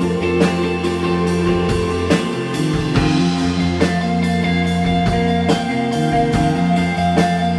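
Rock band playing live: electric guitars over bass and a drum kit keeping a steady beat.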